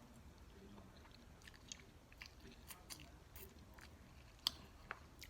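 Close-up eating sounds: soft chewing with scattered small wet clicks of the mouth, one sharper click about four and a half seconds in.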